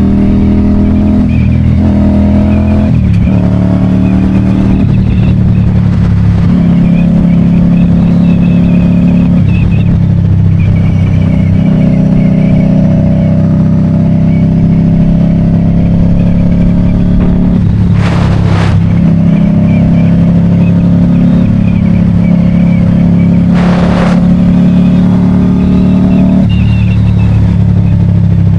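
Motorcycle engine running under way, its pitch holding steady and then stepping up or down every few seconds with throttle and gear changes. Two brief rushing noises cut across it, one in the middle and one a few seconds later.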